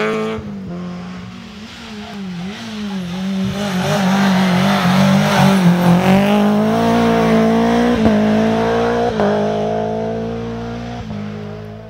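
Rally car engine under hard acceleration on a special stage, pitch rising and dropping with gear changes, getting loudest as it passes close and then fading as it pulls away.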